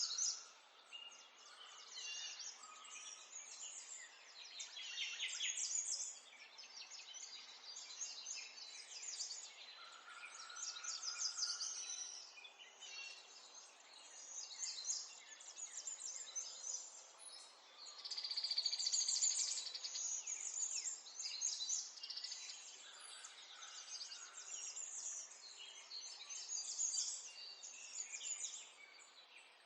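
Several small songbirds chirping and trilling at once, overlapping calls and rapid trills, with a louder, dense trill about two-thirds of the way through.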